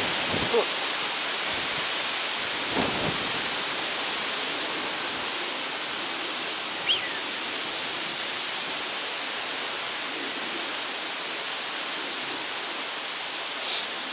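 Steady rushing of strong stormy wind, with a few brief knocks along the way.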